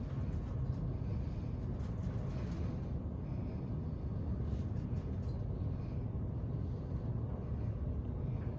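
Elevator car travelling up its shaft, a steady low rumble.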